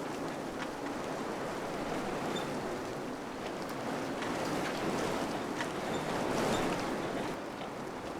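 Wind blowing steadily, swelling into a stronger gust midway and easing off near the end, with a few faint, short high chirps over it.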